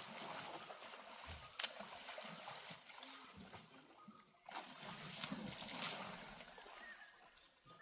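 Water splashing and trickling as an elephant bathes, with a few sharp splashes.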